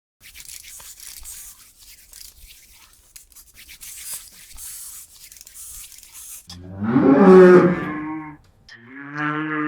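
Faint scratchy rustling, then a loud, long animal call on a steady low pitch lasting nearly two seconds, with a second call starting near the end.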